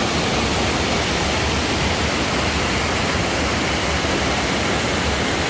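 Rushing water: a steady, loud rush with no breaks.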